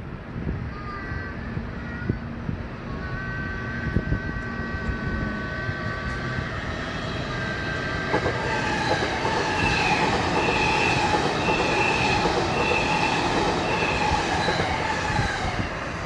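JR East E259 series Narita Express electric train approaching and passing beneath, its wheels on the rails building to the loudest about ten seconds in and then falling away. Steady high whining tones run over the rail noise, and near the peak a high squeal repeats about once a second.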